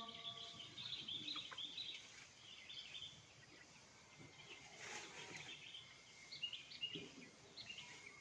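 Faint bird chirps: clusters of short, high twittering notes through the first few seconds, then fewer, with more chirps again near the end.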